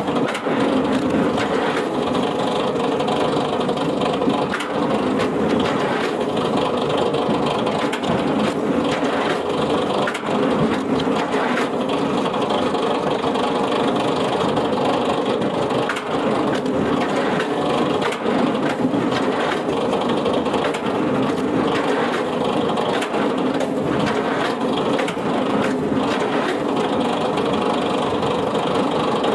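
A wood-processing machine running steadily under its engine, with repeated knocks and cracks of wood being split or crushed.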